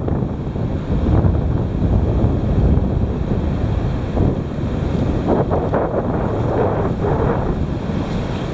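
Strong wind gusting across the microphone: a loud, low rumbling buffet that swells into stronger gusts about halfway through.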